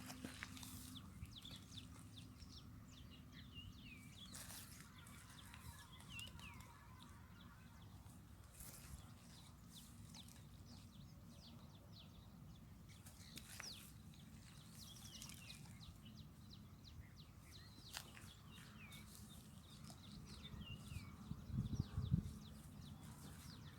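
Birds chirping, short scattered calls over a faint outdoor background, with a few soft thumps near the end.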